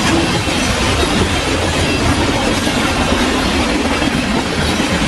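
Freight cars of a CN train passing at speed, close by: loud, steady noise of steel wheels rolling and rattling over the rails.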